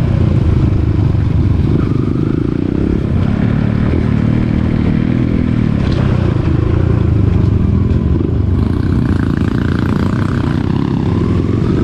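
Dirt bike engine running loud and steady while riding, its revs rising and falling.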